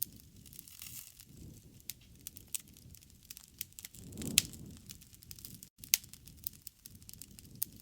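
Campfire burning: irregular sharp crackles and pops of burning wood over a low rumble of flames that swells and fades, with the loudest pop about four seconds in.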